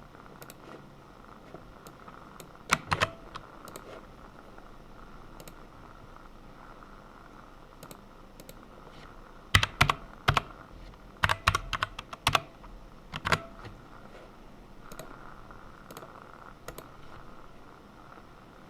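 Typing on a computer keyboard in a few short bursts of keystrokes, the busiest about halfway through, separated by pauses with only an occasional single key press.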